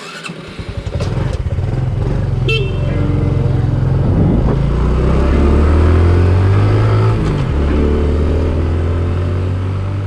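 Yamaha Ténéré 250 motorcycle engine running loudly, its note stepping up and down several times as it is revved and ridden.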